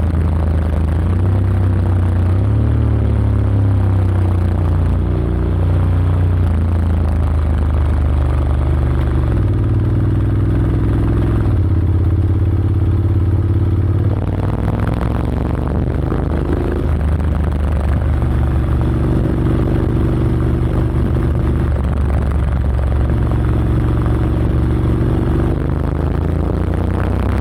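Honda X-ADV 750's parallel-twin engine through an SC-Project SC-1R slip-on exhaust with the dB killer fitted, running continuously. Its pitch holds steady for stretches, then shifts up or down, with a clear rise about halfway through.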